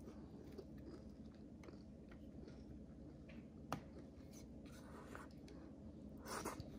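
A person chewing food close to the microphone, with soft mouth clicks and small crunches over a faint steady hum. There is one sharp click a little past halfway and a louder crunchy moment near the end.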